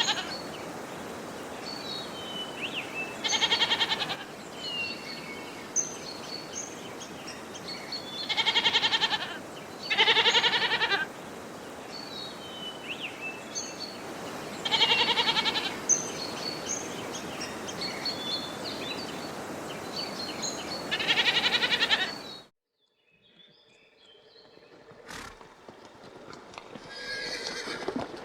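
Goat bleating five times, each call about a second long, over a steady outdoor background with scattered high short chirps. The sound cuts off suddenly about three-quarters through, followed by faint, slowly rising noise.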